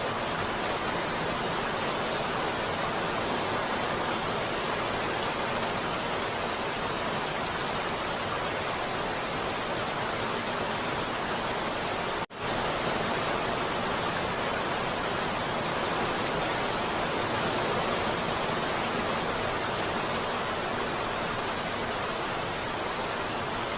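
Heavy rain falling as a steady, even hiss, broken once about halfway through by a split-second dropout.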